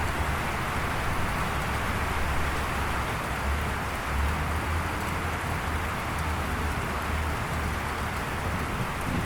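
Steady rain falling in an even hiss, with a low, uneven rumble underneath.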